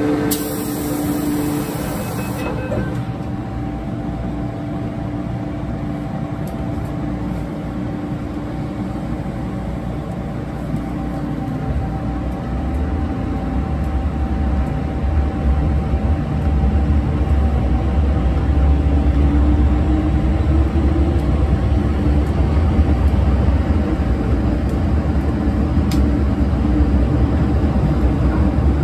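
Inside an MTR M-train electric multiple unit: a steady hum with a constant tone, then from about twelve seconds in a low running rumble grows louder as the train gets under way, with a rising motor whine a few seconds later.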